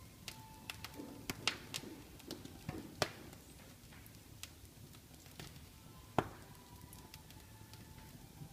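Wood fire in a fireplace crackling: irregular sharp pops, several close together in the first three seconds and one loud pop a little after six seconds, over a faint low rumble.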